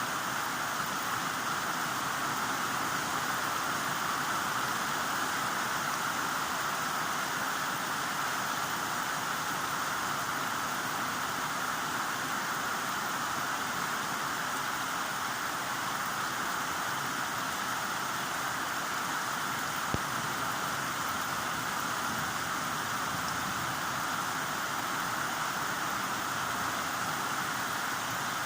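Heavy rain falling in a steady, even hiss, with one short click about two-thirds of the way through.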